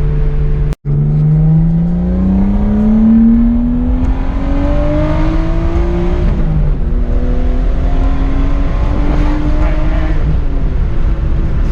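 Turbocharged car engine accelerating hard under full throttle, its pitch climbing steadily through a gear, dropping at an upshift about six seconds in, then climbing again and shifting once more near the end. This is a test pull to check that the turbo boost holds. The sound cuts out for an instant about a second in.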